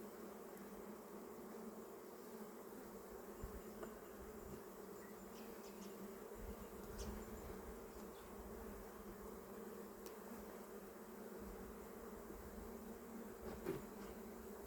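A colony of honey bees buzzing from an opened hive: a steady, faint, low hum, with a few light clicks.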